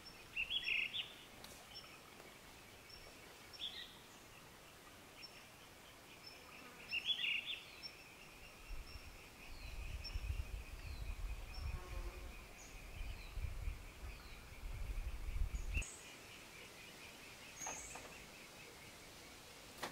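Birds chirping and calling, with short falling calls and a steady rapid trill through the middle. A low rumble comes in about halfway and stops abruptly near the end.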